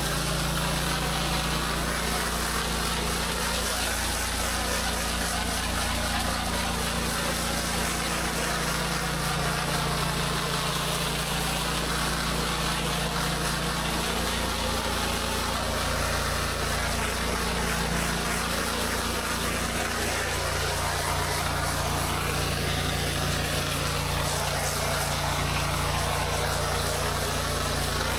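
Pressure washer's gas engine running steadily under an even hiss of water spray, its low hum stepping slightly in pitch a few times.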